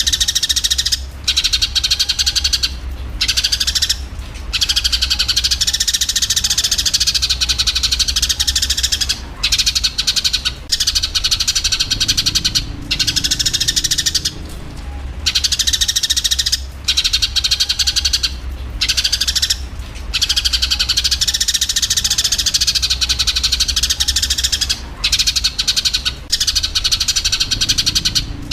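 Eurasian tree sparrows in a dense, rapid chatter of chirps, the squabbling calls of sparrows fighting, coming in long runs broken by short pauses. A steady low hum runs underneath.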